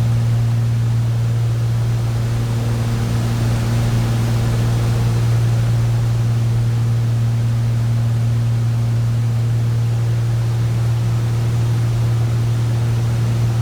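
Right-hand engine of a twin-engine boat running steadily, a constant low drone with a few fainter higher tones over a steady hiss.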